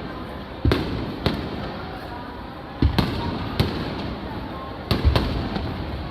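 Aerial firework shells bursting: a string of sharp booms, roughly seven in six seconds, some in quick pairs, each followed by a low rumble.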